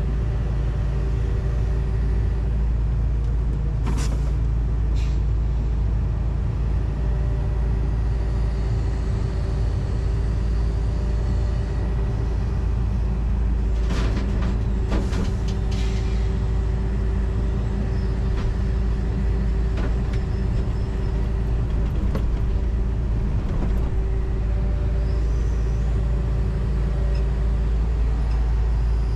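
John Deere 245G excavator's diesel engine running steadily under work, heard from inside the cab as a loud, even drone. A few sharp knocks break in, about four and five seconds in and again around fourteen to sixteen seconds.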